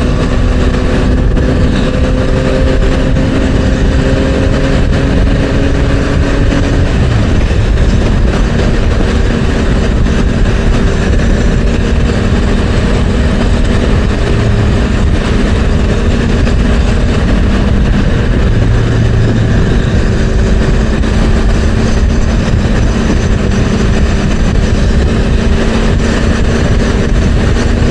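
Motorcycle engine running at expressway cruising speed, with heavy wind noise on the helmet-mounted microphone. The engine note climbs slightly, changes at about seven seconds in, then holds steady.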